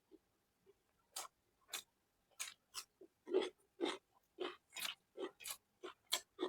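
Close-miked chewing of soft food with wet mouth smacks, about two to three a second.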